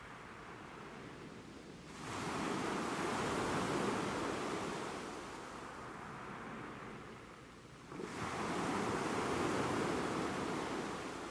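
Ocean waves breaking on a shore: two waves about six seconds apart, each a sudden surge of rushing surf that slowly washes back down.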